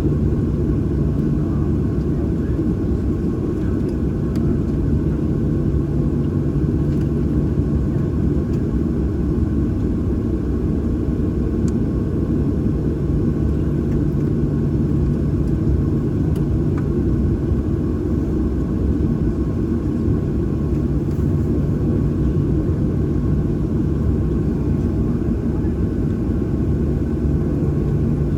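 Steady low rumble of a Boeing 737-800's CFM56-7B engines at idle, heard from inside the passenger cabin, with a steady low hum.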